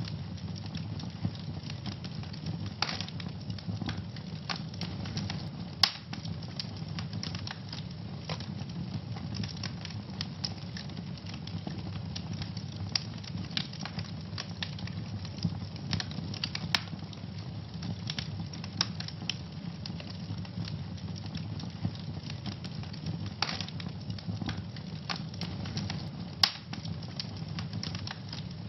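Wood fire burning in a fireplace: a steady low rumble of flames with constant crackling and scattered sharp pops, a few of them louder.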